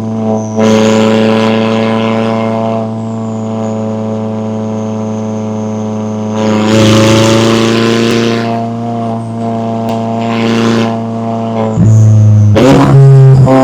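McLaren 570S twin-turbo V8 running at steady revs. Its exhaust sound surges louder about a second in and again about halfway through, and the pitch shifts up shortly before the end.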